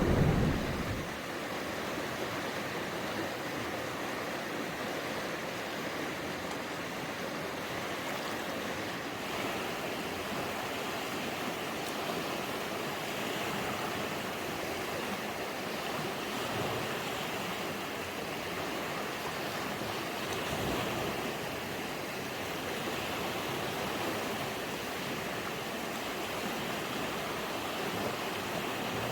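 Steady rushing water noise, even and unbroken, after the tail of a loud thunderclap dies away in the first second.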